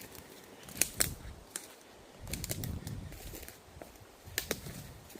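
Footsteps through woodland undergrowth, with sharp snaps of twigs and forest-floor debris underfoot, a pair of snaps about a second in and another pair about four and a half seconds in.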